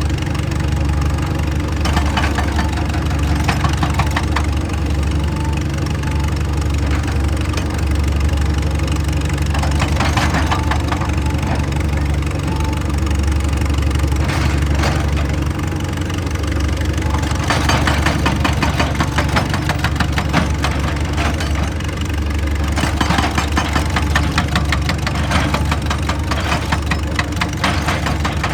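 Excavator's diesel engine running steadily, with stretches of rapid clattering over it: briefly about ten seconds in, and for longer later on.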